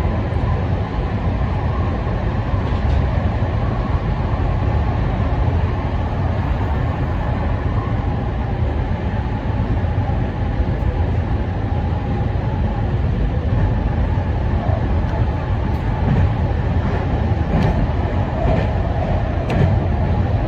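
Meitetsu 5000-series electric train running at speed, heard from inside: a steady rolling rumble, with a few sharp clicks near the end.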